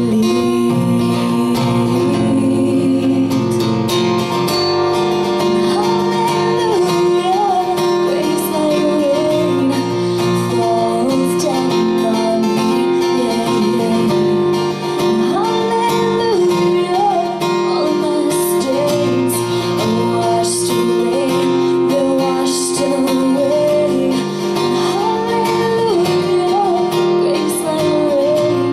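Acoustic guitar strummed and picked steadily, with a sung or played melody wavering above the chords.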